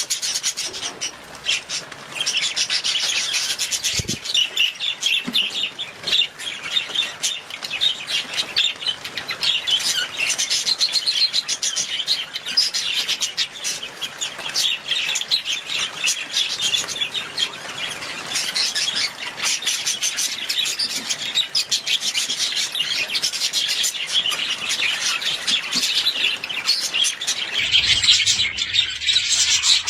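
Budgerigars chattering and warbling continuously, a dense stream of fast chirps and clicky notes with no pauses.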